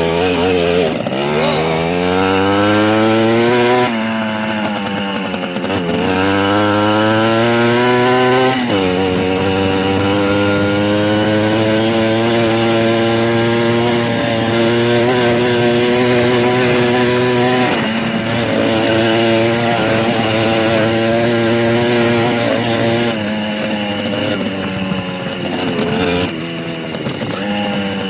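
Small motorcycle engine running under way: its pitch climbs for about four seconds, drops, climbs again to about eight seconds in, then holds steady at cruising speed, easing off briefly twice near the end.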